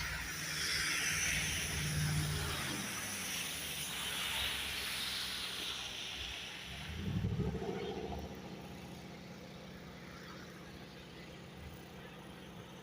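A passing car: a wide hiss of tyres that swells and fades over the first six seconds, then a low engine rumble about seven seconds in, settling to a steady background hum.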